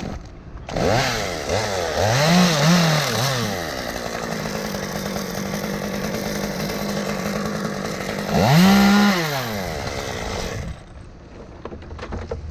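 Chainsaw revved up and down several times, then running steadily, revved once more and shut off about ten seconds in.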